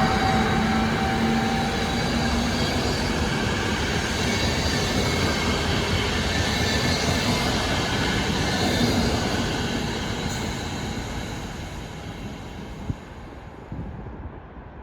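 Passenger train hauled by a Siemens Vectron electric locomotive running through, a steady rumble of wheels and carriages with a few steady tones in the first seconds, dying away over the last few seconds.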